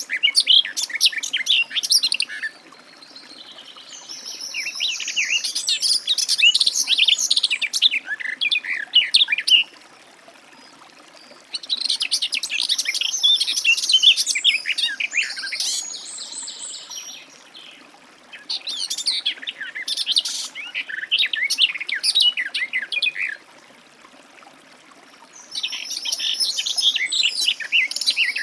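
Garden warbler singing: long phrases of fast, rich warbling, each lasting several seconds, with short pauses of a second or two between them.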